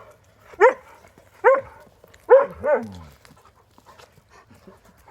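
Malamute dogs giving four short, pitched woo-like vocalisations, each rising then falling in pitch, the last two close together, in answer to their owner's greeting.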